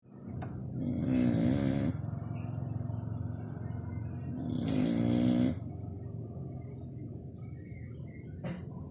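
Dog snoring like a human: two snores about three and a half seconds apart, each lasting about a second with a wavering pitch.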